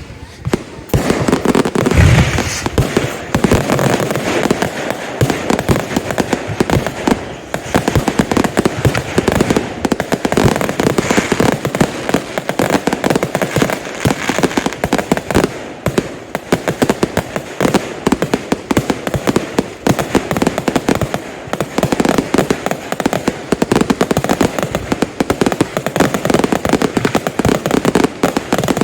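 Consumer fireworks going off in a dense, continuous barrage of rapid shots and bursts, with a heavy bang about two seconds in.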